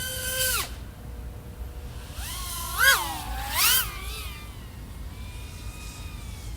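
Motors of a 3.5-inch FPV quadcopter (iFlight AOS 3.5 V5 with XING 1504 3100KV motors and three-blade props) whining as the throttle is worked. A high whine cuts off about half a second in, two quick throttle punches rise and fall around the middle, then a softer, steadier whine follows, with a low wind rumble throughout.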